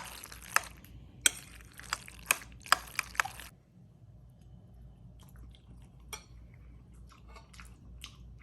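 Kitchen utensils clicking and tapping against dishware, a run of about seven sharp taps in the first three seconds, then fainter scattered clicks.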